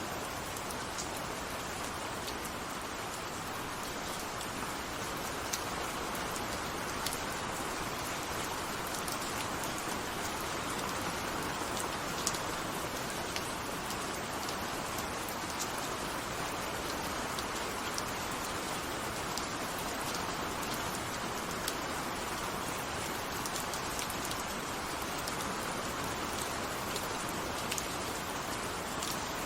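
Steady rainfall: a continuous even hiss with scattered individual drops ticking sharply on a surface.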